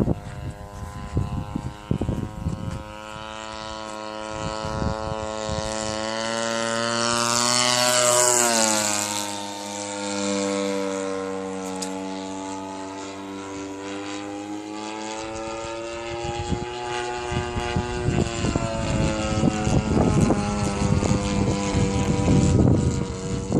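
EME 35cc two-stroke gas engine and propeller of an Ultimate 120 RC aerobatic plane on a low pass over the runway. The engine note grows louder, peaks about eight seconds in and drops in pitch as the plane goes by, then fades as it moves away. Wind buffets the microphone at the start and again near the end.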